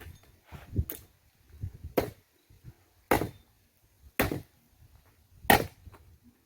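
Firewood being chopped: about five sharp strikes roughly a second apart, the last the loudest.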